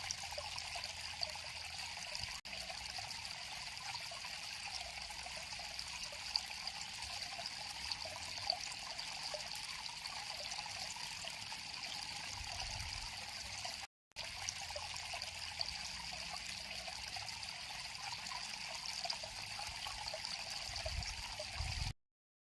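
River water flowing and trickling steadily. It drops out briefly about two-thirds of the way through and stops abruptly near the end.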